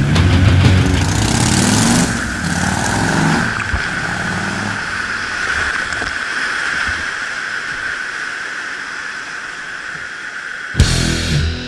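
A vehicle engine revving, its pitch rising and falling over the first few seconds, then settling into a steady running drone with road or wind noise. Loud music cuts back in near the end.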